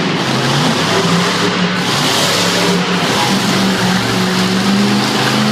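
Monster truck engine running at high revs, a loud sustained drone whose pitch holds fairly steady and creeps up toward the end.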